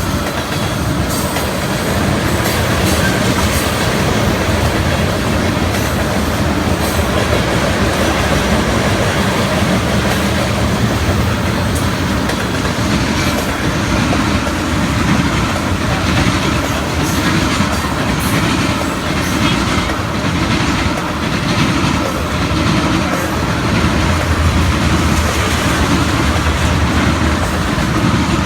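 Norfolk Southern freight train rolling past close by: a steady rumble of the cars with the wheels clacking over rail joints, the clacks coming more often in the second half.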